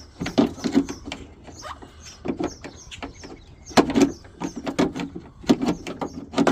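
Irregular clicks and knocks of metal and plastic parts as a truck door latch assembly is worked loose and turned inside the door shell, the loudest knocks about four and five and a half seconds in.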